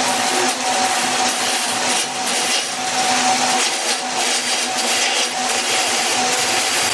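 Wood lathe running, a steady motor hum under a loud hiss of the spinning wood being worked.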